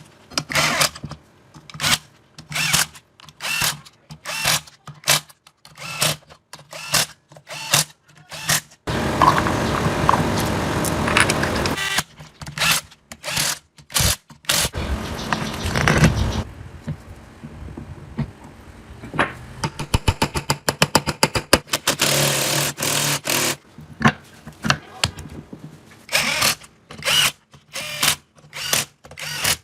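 Workshop tool noise: a run of sharp knocks or taps, getting quicker near the end, with a few seconds of steady power-tool-like noise about nine seconds in and again about twenty-two seconds in.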